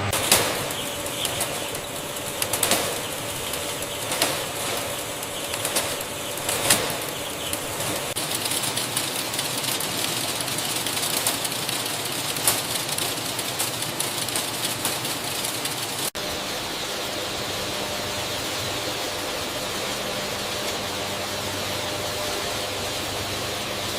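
Bird wings flapping in several short bursts over a steady rushing noise; the flapping comes in the first half, and after a sudden break the steady noise goes on alone.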